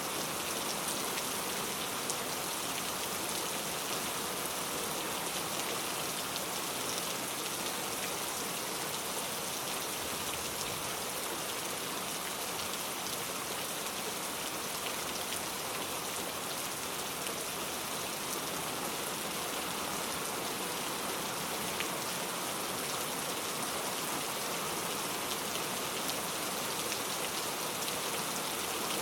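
Steady rain falling: an even hiss with many small ticks of single drops, unchanging throughout.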